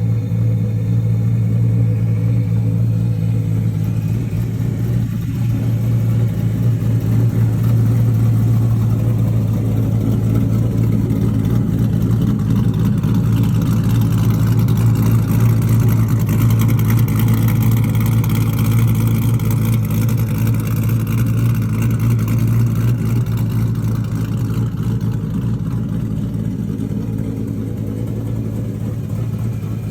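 Boss Hoss trike's LS3 V8 engine running steadily with a deep, even note.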